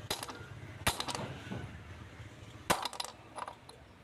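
Hammer blows on a steel socket, driving a motorcycle wheel bearing into its hub: three sharp metallic strikes with brief ringing, plus a few lighter clinks.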